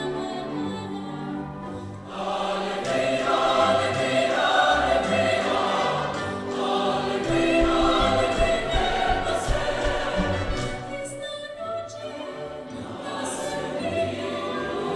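Choir singing a held, slow-moving passage. It swells louder about two seconds in and eases off briefly near the last few seconds before building again.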